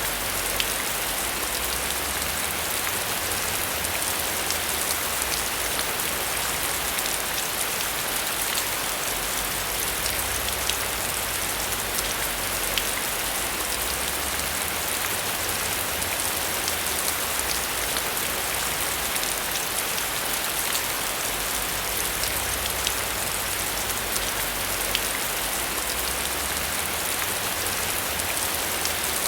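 Steady heavy rain pouring down, a dense hiss with the sharp patter of individual drops striking a surface, over a faint low rumble.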